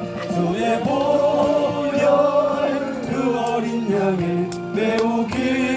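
A group of voices singing a Korean hymn together in held, drawn-out notes.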